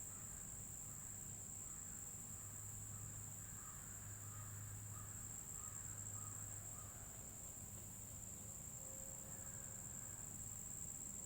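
Crickets chirring in a steady, unbroken high-pitched trill.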